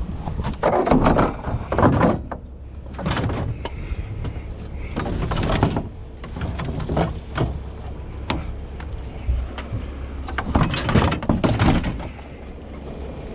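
Irregular knocks, scrapes and clatter of discarded items being moved and handled, loudest about a second in and again near the end.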